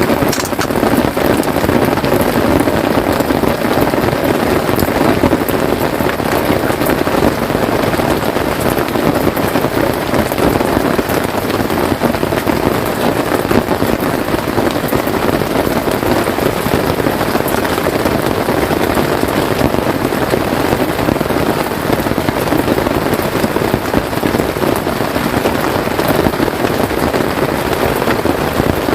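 Steady rain falling on a tent, a dense, even patter of drops with no letup.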